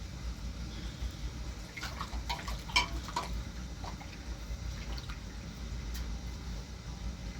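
A quick run of light clicks and knocks about two to three seconds in, and one more near the end, over a steady low rumble.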